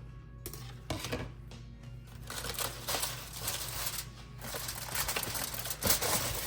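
Food packaging crinkling and rustling in irregular bursts while leftovers are handled, busier toward the end.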